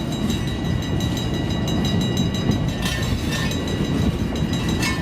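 Freight cars, center beam flatcars among them, rolling past on the rails: a steady rumble of wheels on track with faint clicks and a thin, steady high-pitched whine over it.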